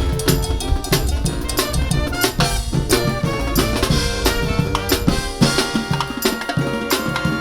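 Live brass band playing an upbeat tune with a steady, Latin-flavoured drum and percussion beat under held brass notes.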